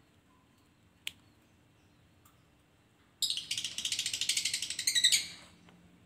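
Common iora (sirtu) giving a loud, rapid chattering call: about two seconds of fast repeated high notes starting a little past the middle. A single sharp click comes about a second in.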